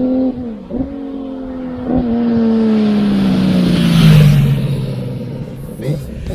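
Honda CBX 1047cc inline-six motorcycle, breathing through a stainless 6-into-2 exhaust, riding past at speed. Its engine note holds steady, then drops in pitch as it goes by, loudest about four seconds in, and fades.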